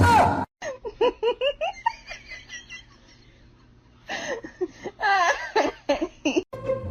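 High-pitched giggling laughter in two bouts of quick, rising-and-falling pulses, the first about half a second in and the second starting about four seconds in, with a short loud burst at the very start.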